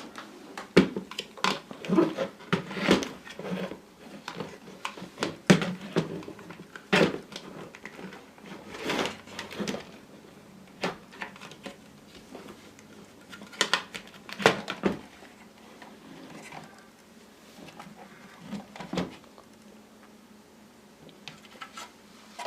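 Irregular clicks, knocks and light clatter in a small room, several a second at first and thinning out after about ten seconds.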